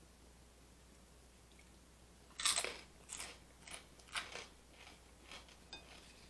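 A large pork rind bitten with a loud crunch about two and a half seconds in, then chewed with a quick run of fading crunches, close to the microphone.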